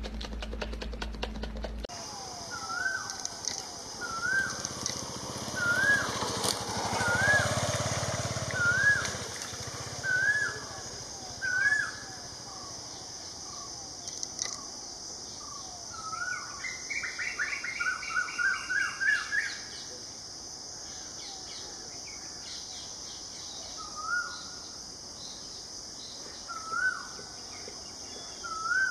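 Outdoor bird calls: a short hooked whistled note repeated about once a second, a burst of rapid chattering notes midway, then a few more single notes, over a steady high hiss. A low hum cuts off about two seconds in.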